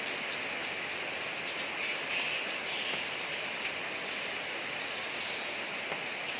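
Steady rain falling on a street, an even hiss with scattered drips.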